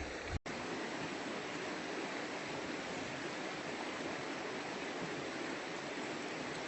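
River water rushing steadily over rocks at a shallow crossing, an even, unbroken hiss.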